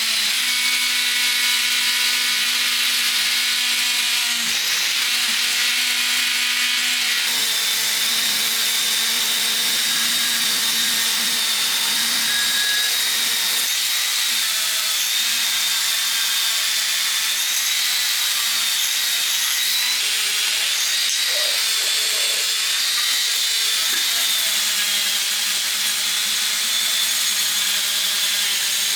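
A power tool running continuously with a steady high whine over hissy grinding noise. A lower hum underneath stops about seven seconds in.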